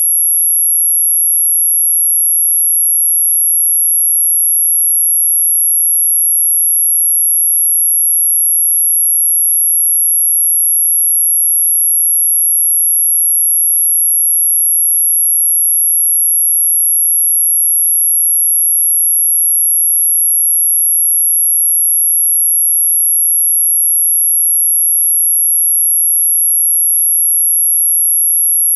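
A synthesized anti-mosquito repellent tone: one steady, unbroken, very high-pitched sine tone, held loud at a constant level.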